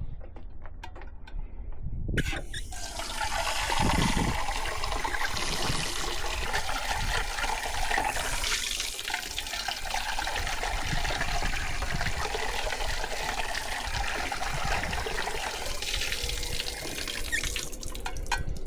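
Water running or being poured in a steady stream, starting suddenly about two seconds in and stopping shortly before the end.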